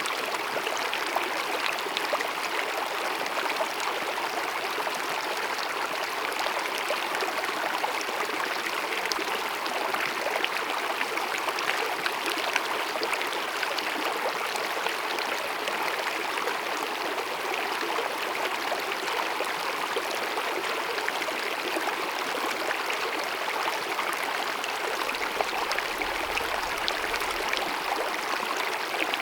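Small mountain meadow stream running over rocks, a steady babbling of water.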